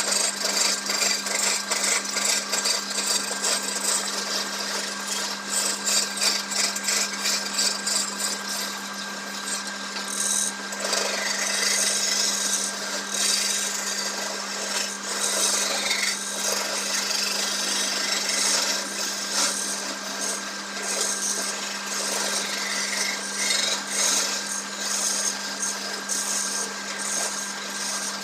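Wood lathe running with a steady motor hum while a turning tool cuts the spinning wood, a continuous rasping scrape with a rapid flutter.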